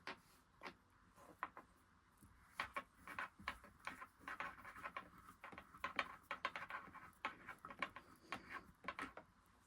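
Faint, irregular clicks and taps of small plastic and metal parts being handled while the bottom of a Singer Genie sewing machine is taken apart, starting a couple of seconds in.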